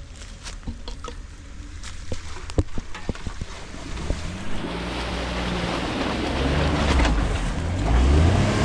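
Scattered clicks and snaps, then a Jeep's engine coming in and getting louder from about halfway, its pitch rising and falling as it revs, with wind rushing over the microphone.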